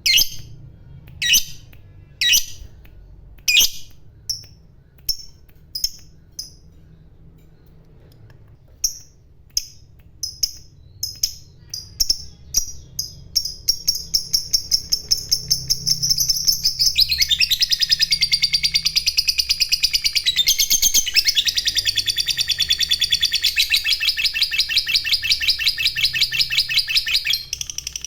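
Lovebird's long 'ngekek' chatter: single sharp chirps about a second apart quicken into a rapid, continuous rattling trill, which turns denser and louder about two-thirds of the way through and then breaks off near the end.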